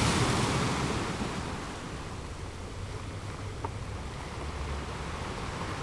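Ocean ambience: a steady rushing water noise that eases down over the first two seconds, with one faint tick about three and a half seconds in.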